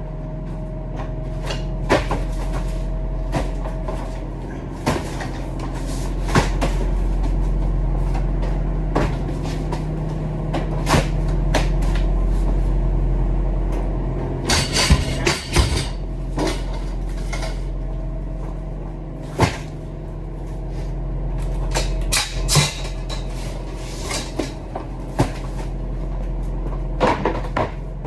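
Truck engine running with a steady low drone that slowly swells and eases, heard from inside the cab, with frequent sharp clicks and rattles throughout.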